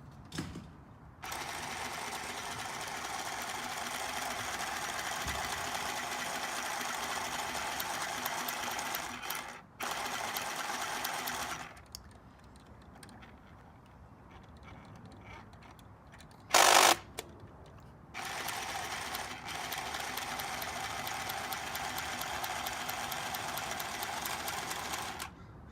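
Mini Singer sewing machine running under its foot pedal, stitching in three stretches. It stops briefly about ten seconds in and again from about twelve to eighteen seconds in. A short, loud burst of noise comes about seventeen seconds in and is the loudest thing heard.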